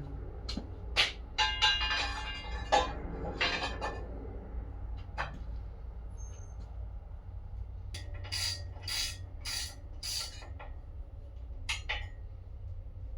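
Metal clinks, knocks and clatter as a flywheel is fitted and bolted onto a V8 LS engine, with a ringing, rattling stretch early on and a run of sharp knocks in the second half, over a low steady hum.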